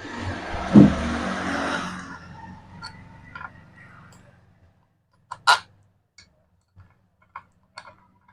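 Workshop noise during engine assembly: a rushing noise with a low hum for about two seconds that fades away, then scattered light metal clicks of small parts and tools, with one sharper clink about five and a half seconds in.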